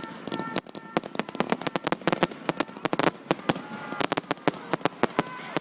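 Fireworks going off: a dense, irregular run of sharp crackling pops and bangs.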